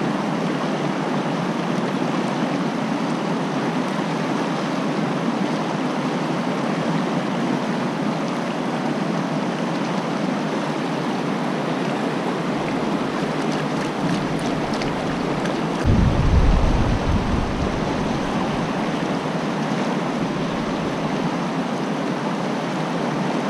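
Steady rush of fast-flowing creek water over rocks. About two-thirds of the way through, a brief low rumble rises over it for a second or two.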